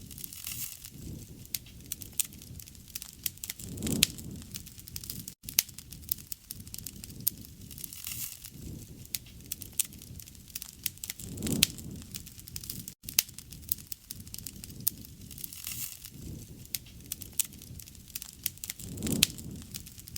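Campfire crackling, with many sharp pops and snaps over a low rumble of flames that swells about every seven to eight seconds.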